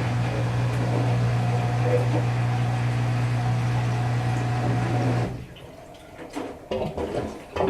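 Whirlpool Duet Sport front-load washer's drain pump humming steadily as it pumps the water out before the spin. It cuts off suddenly about five seconds in, leaving a few faint knocks.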